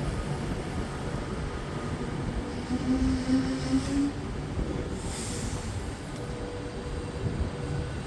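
Electric passenger trains moving slowly at the station platforms, with a short low whine about three seconds in, a brief hiss around five seconds, and a steady whine from about six seconds on.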